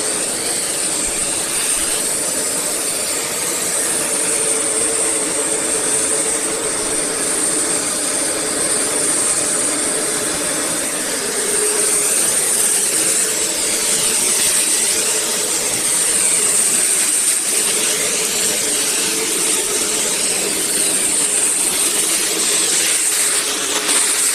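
Eureka WhirlWind bagless canister vacuum cleaner running steadily with a high whine, then cutting off abruptly near the end.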